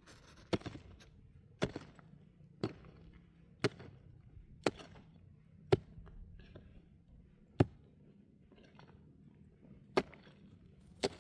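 Pickaxe striking rock in sharp single blows, about one a second at first, then three more with longer pauses between them.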